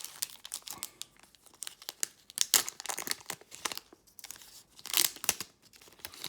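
Foil booster-pack wrapper crinkling and tearing as it is pulled open by hand, in irregular crackles with a few louder rips.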